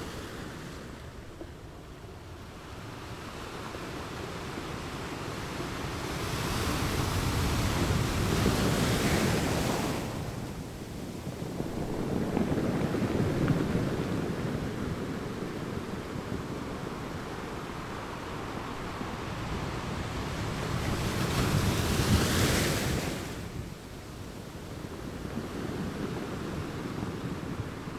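Ocean surf on a beach: waves breaking and washing in, rising and falling in slow surges. The two loudest, hissing washes come about a third of the way in and again about three-quarters through, with a lower swell between them.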